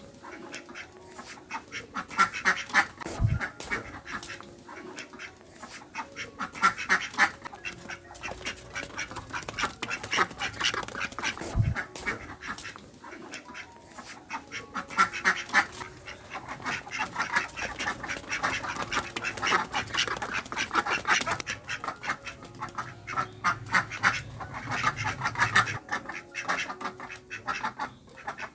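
Ducks quacking in bouts of rapid calls, a few seconds apart.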